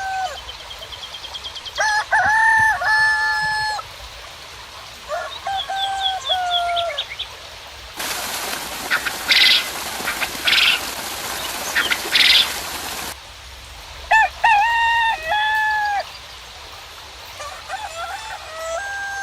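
Roosters crowing about four times, cock-a-doodle-doo, with small birds chirping high in between. For about five seconds in the middle, a steady hiss of rain cuts in and then stops abruptly.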